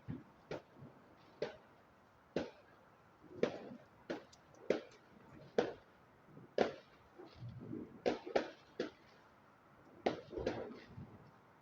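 Distant fireworks going off: an irregular string of sharp bangs and pops, about fifteen in all, some followed by a short low rumble that sounds like thunder.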